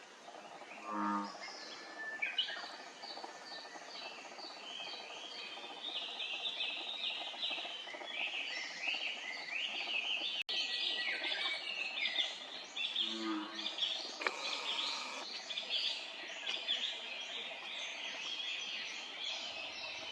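Little grebe young giving rapid, high-pitched begging peeps over and over, a dense chorus that builds about two seconds in and carries on. A short, low call is heard twice, about a second in and again around the middle.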